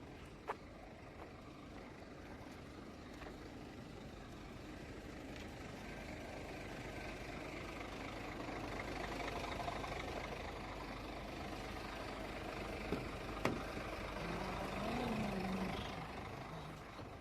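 Heavy truck engine running, growing louder in the second half, with a brief rise and fall in pitch near the end and a few sharp clicks.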